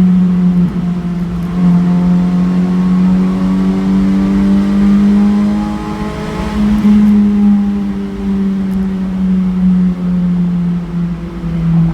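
Honda CR-Z's 1.5-litre four-cylinder engine running through a 5zigen Fireball aftermarket muffler, heard in a tunnel. The note holds fairly steady, rises a little toward the middle with a small step up about seven seconds in, then eases off and drops near the end.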